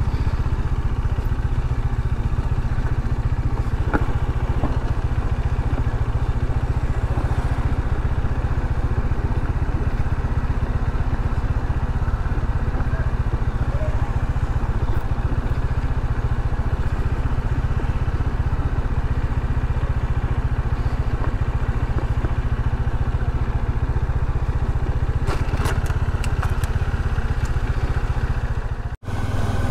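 Bajaj Dominar 400's single-cylinder engine running steadily on the move, heavy in the low end, with a few faint ticks late on and a brief cut-out about a second before the end.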